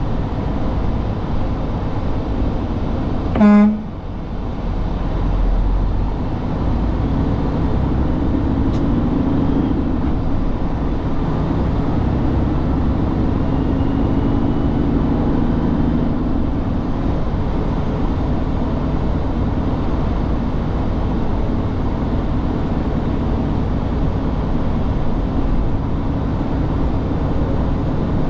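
Truck driving with a steady engine and road rumble. A single short horn honk sounds about three and a half seconds in.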